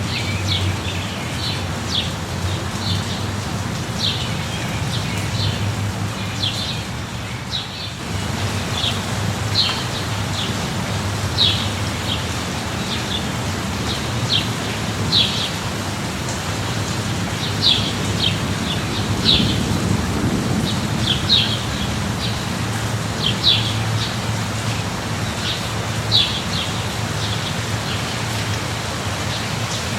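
Steady rain with a low rumble underneath, and a bird giving short high chirps every second or so. The whole sound drops briefly about eight seconds in.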